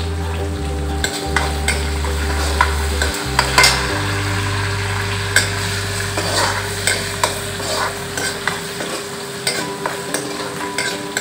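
Soaked chana dal and curry leaves sizzling in hot oil in a kadai, stirred with a steel ladle that scrapes and clicks against the pan at irregular moments.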